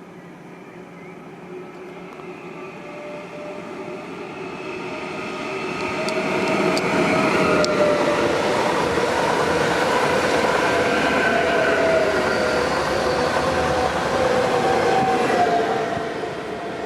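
A train running through a railway station. It grows louder over the first six seconds, stays loud for about ten, then drops off near the end, with a wavering whine over the rail noise.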